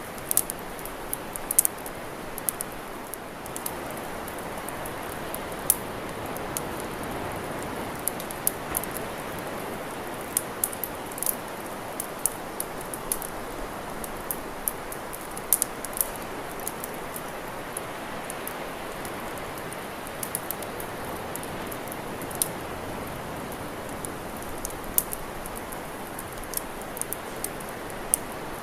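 Wood campfire crackling, with sharp pops coming irregularly, often several a second, over a steady hiss.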